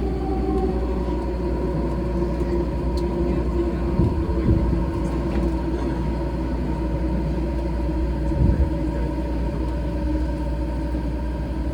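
Odakyu 4000-series electric train running at steady speed, heard from inside the car: a continuous rumble of wheels on rail with a steady motor hum. Two louder thumps come about 4 and 8.5 seconds in.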